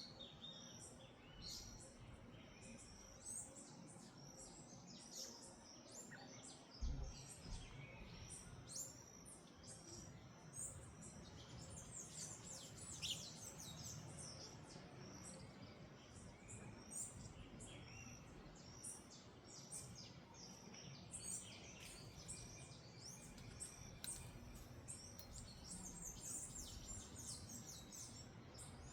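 Small birds chirping, many short high chirps overlapping throughout, faint. A single low thump about seven seconds in.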